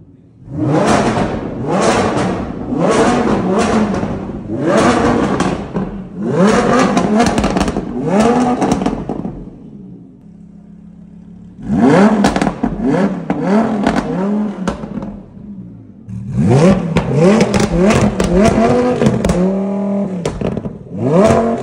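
Lamborghini Huracán's naturally aspirated V10 being free-revved while standing, in quick blips that each rise and drop back. The revs come in three runs, about one a second, with a short lull at idle about ten seconds in.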